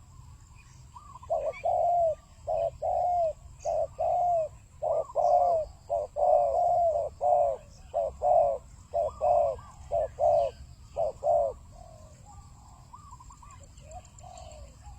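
Spotted dove cooing: a run of short arched coos, several in quick pairs, from about a second in until about eleven and a half seconds, then stopping.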